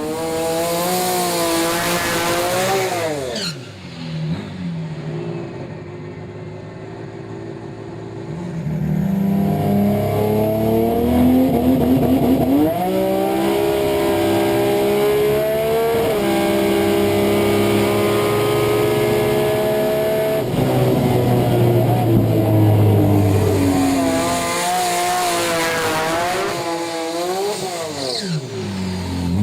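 Turbocharged Ford Barra 4.0-litre straight-six engine. A car sweeps past with falling pitch, then accelerates hard through the gears, pitch climbing and breaking at each shift, and another falling pass-by comes near the end.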